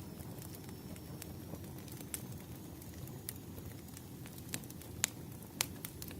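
Wood fire crackling: a steady low rumble with scattered sharp pops, the two loudest about five seconds in.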